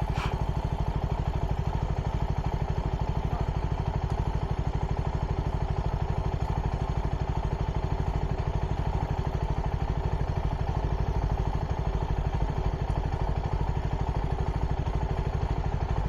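Motorcycle engine idling steadily, a fast even pulsing that holds at one speed.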